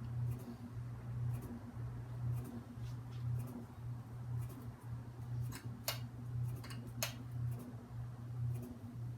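SMC Park Avenue III ceiling fan running with a steady motor hum that swells about once a second as the blades turn, with faint ticks at the same rhythm. Two sharper clicks come a little past the middle.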